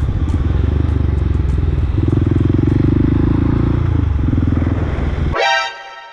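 Supermoto motorcycle engine running under way. Its note holds higher for about two seconds in the middle, then eases off. Near the end the engine sound cuts out suddenly, and a brief high ringing tone fades away.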